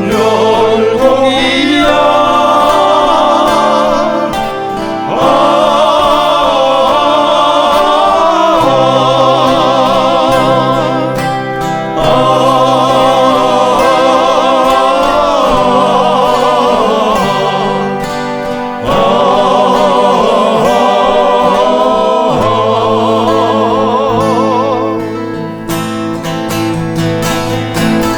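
Male vocal ensemble singing long, wavering held notes in close harmony over acoustic guitars, changing chord every few seconds. Near the end the voices fade and strummed acoustic guitar is left.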